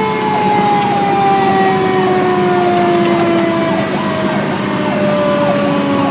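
Fire engine sirens sounding while the truck is on the move: one long tone slowly falls in pitch as a siren winds down, while another siren cycles rapidly up and down over it. A steady drone from the truck runs underneath.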